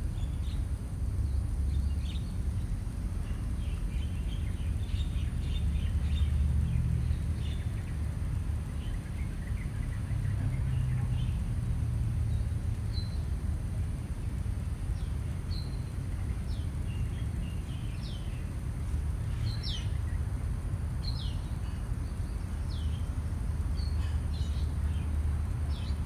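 Small birds chirping: a run of quick high chirps in the first half, then single short falling notes about every second. A steady low rumble of background noise runs underneath and is the loudest part.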